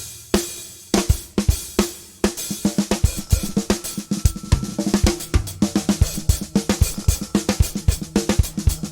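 Drum kit playing: a few spaced hits, then from about two seconds in a steady groove of kick, snare, hi-hat and cymbals, with sustained low notes underneath from about halfway.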